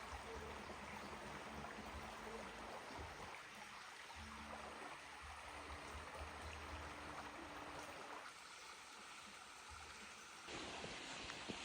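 Stream water running steadily, fairly faint, its sound shifting abruptly twice near the end.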